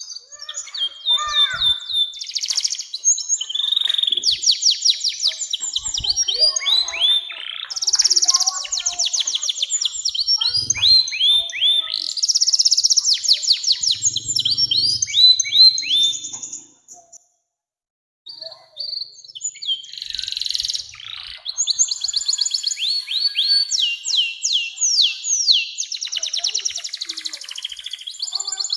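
Domestic canary singing long, fast rolls and trills of rapidly repeated high notes, with a short break about two-thirds of the way through before it starts up again.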